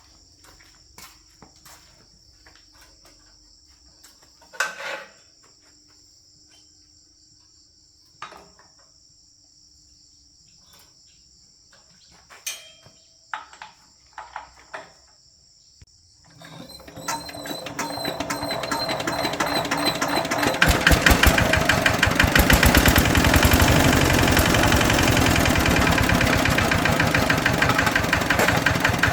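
Crickets chirping steadily, with a few scattered knocks and clicks. About sixteen seconds in, a tractor engine starts and builds up, then runs steadily with a rapid, even firing beat that drowns out the crickets.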